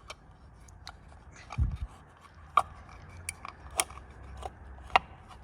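Corvette Z06 wheel center cap being pushed into the wheel and worked by hand: a scattered series of sharp clicks and knocks, with a dull thump about one and a half seconds in. Its retaining tabs are thickened with electrical tape to stop it rattling, and the cap now sits tight.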